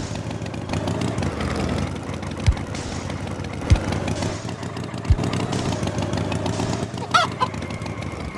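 Steady engine-like rumble of a cartoon farm tractor with a few low thuds, and a short chicken-like call about seven seconds in.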